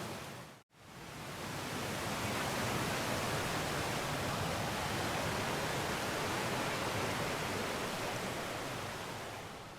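Steady rushing of the Ocqueoc River pouring over the low limestone ledges of Ocqueoc Falls. The sound cuts out briefly about half a second in, fades back up and then holds steady.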